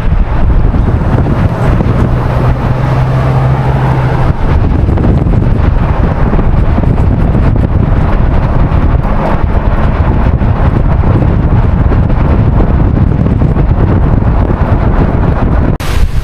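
A van driving, its engine and road noise mixed with heavy wind buffeting the microphone. A steady low engine drone stands out for the first four seconds or so, then the wind noise takes over.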